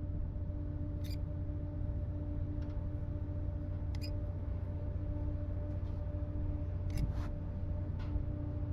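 A steady low machine hum with a few sharp clicks, about a second in, about four seconds in, and twice near seven and eight seconds.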